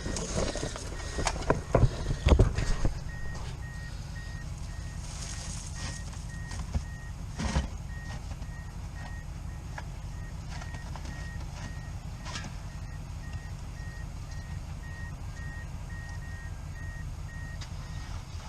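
A steady series of short, evenly spaced high electronic beeps at one pitch, with a few knocks and clunks in the first few seconds, over a low steady rumble.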